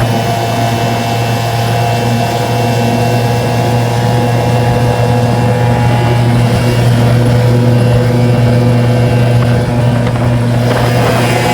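Small 5 hp outboard motor running steadily at full throttle, with a bronze racing propeller mounted high on a jacking plate so that it surface-pierces, pushing a small aluminium boat on the plane.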